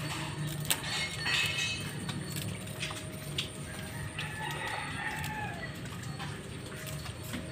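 Bird calls: a short call about a second in, then one long call about four seconds in that rises and falls in pitch, over a steady low hum.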